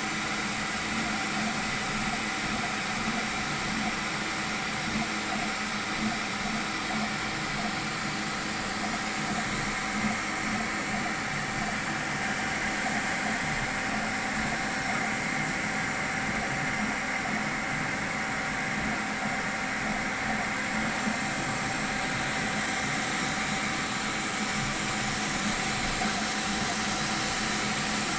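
Creality K1 3D printer running a print: a steady whir of its fans with several constant whining tones from the motors.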